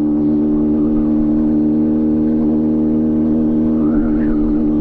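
Kawasaki ZX-6R sportbike's inline-four engine running at steady revs, one even engine note throughout.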